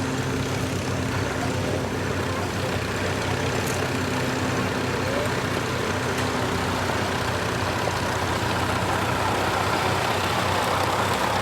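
An engine running steadily with an even low hum, getting slightly louder near the end.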